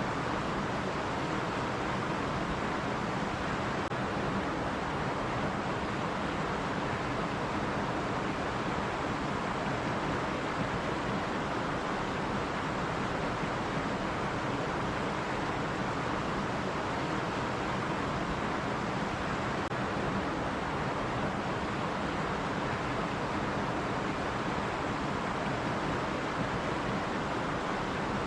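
Running stream water: a steady, even rushing that holds without change.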